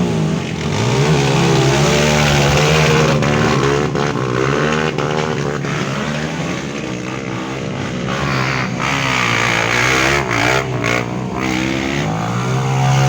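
Off-road trail motorcycle engines revving up and down repeatedly as the bikes are ridden through a boggy marsh. Several engines overlap at once.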